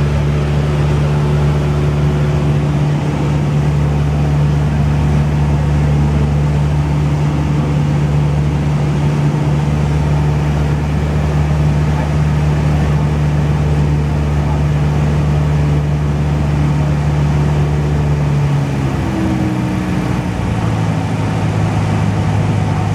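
Cessna 172 piston engine and propeller droning steadily. Near the end the pitch drops as the engine speed comes down, then holds at the lower speed.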